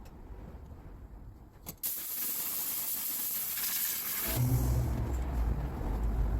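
Compressed-air tool blowing dust out of a car's interior: a sharp hiss of air starts about two seconds in. About four seconds in it turns into a heavier low rumble of rushing air.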